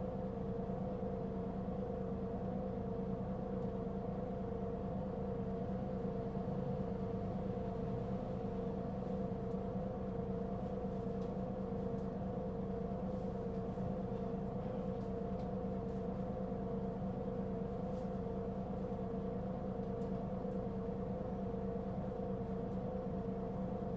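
Mitsubishi Fuso Aerostar city bus (LKG-MP37FK) running with a steady drone: a deep hum with a slightly wavering whine above it, unchanging throughout. This bus gives off a considerable abnormal noise.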